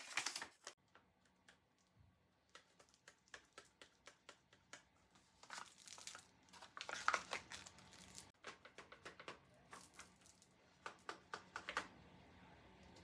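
Folded paper crinkling and rustling in many short crisp clicks as paper dragon puppets are handled, with louder flurries about halfway through and again near the end.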